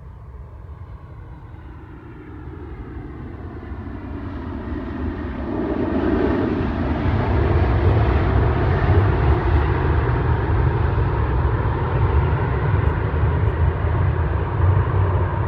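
Jet airliner engines, the CFM LEAP-1B turbofans of a Boeing 737 MAX 8, growing louder into a steady loud rush with a low rumble; in the first few seconds a whine falls in pitch.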